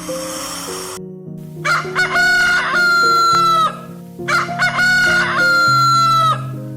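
A rooster crowing twice, each crow about two seconds long, held on one pitch and dropping off at the end.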